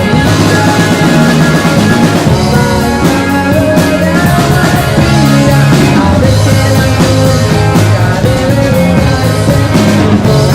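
Rock band playing live, loud and without a break: two electric guitars, bass guitar and drum kit.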